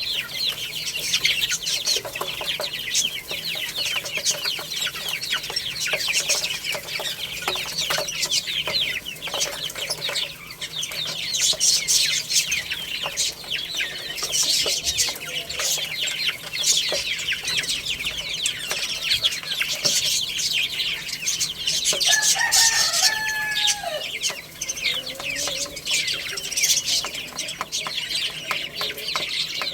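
A flock of baby chicks peeping continuously, many short high-pitched chirps overlapping. About 22 seconds in, a brief lower call cuts through the chirping.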